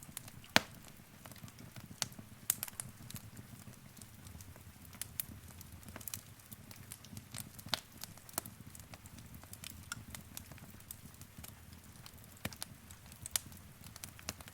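Wood fire crackling in a fireplace: irregular sharp pops and snaps, one loud pop about half a second in, over a low steady rumble.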